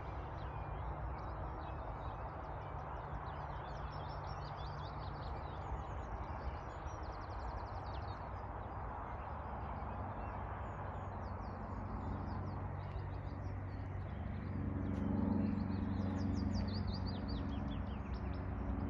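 Small birds chirping and singing over a steady outdoor background rumble. A louder low hum swells in about three-quarters of the way through.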